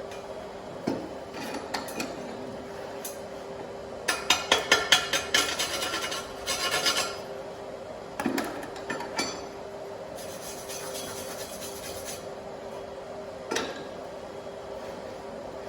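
Hard scraping and rubbing strokes on metal, several a second in a burst of a few seconds, with scattered knocks and a brief hiss, over a steady low hum.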